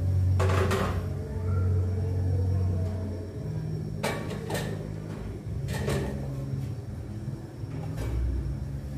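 A steady low rumble with a few sharp knocks: one about half a second in, a pair around four seconds, and another near six seconds.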